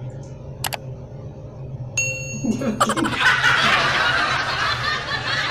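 A short bright ding about two seconds in, then a loud burst of laughter that carries on to the end, over a steady low hum.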